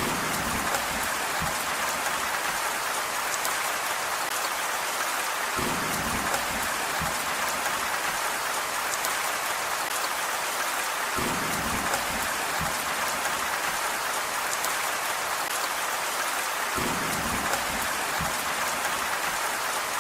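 Steady rain with a dense hiss. A short low rumble comes back evenly about every five and a half seconds, four times.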